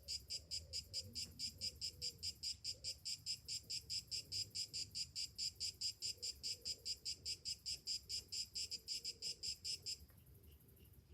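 Cicada singing a fast, evenly pulsed high-pitched song with several pulses a second, cutting off suddenly near the end.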